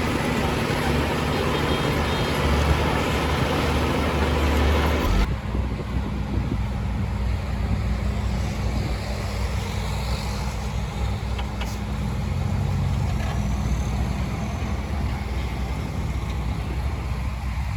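Heavy diesel construction machinery running. About five seconds in the sound changes abruptly from a loud, noisy engine sound to a quieter, steady low engine drone.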